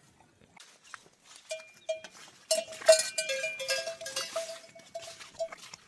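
Bells hung on moving livestock clanking irregularly, at least two bells of slightly different pitch. The strikes start sparse and become a busy, jangling run about a third of the way in.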